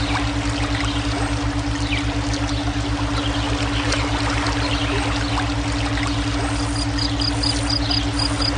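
Flowing water running steadily, mixed with brainwave audio: low steady tones that pulse rapidly and evenly under the water. Faint short chirps sound over it, and near the end a high note starts repeating in quick pulses.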